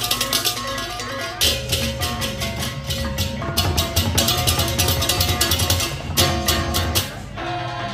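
Balinese baleganjur gamelan playing: fast interlocking cengceng cymbal clashes over drums and ringing pitched gong tones. Near the end the cymbals stop, leaving the sustained gong-chime tones.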